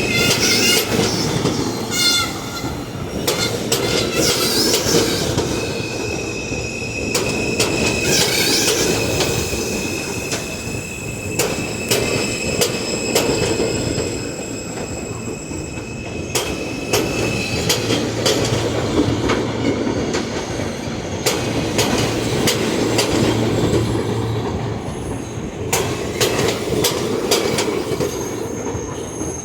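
New York City subway train running through the station, its wheels squealing in high tones over a steady rumble, with sharp clicks as the wheels pass over rail joints.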